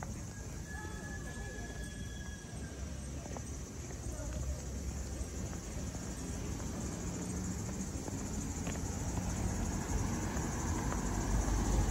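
Steady low rumble of a sightseeing train that slowly grows louder, with a few faint thin high tones over it.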